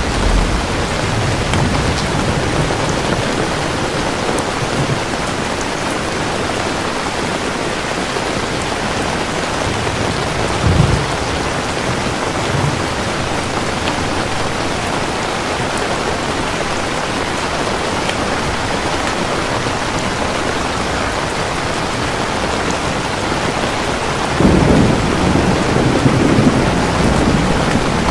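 Steady heavy rain with rolling thunder: a low rumble at the start, a short rumble about 11 seconds in, and a louder, longer roll of thunder near the end.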